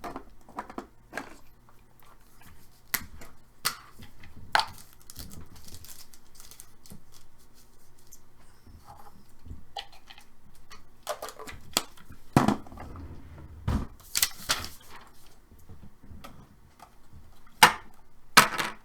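Packaging of sealed trading card boxes being handled and opened: scattered clicks and taps, with a few short ripping sounds, the loudest about two thirds of the way through and near the end.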